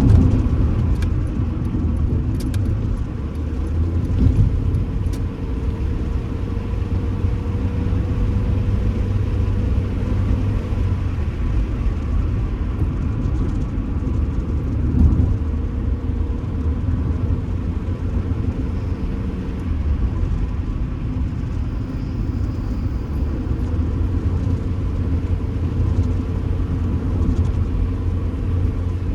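Stock older Honda Civic driving, with steady engine and road rumble heard from inside the cabin. A few light rattles from the phone mount come in the first few seconds.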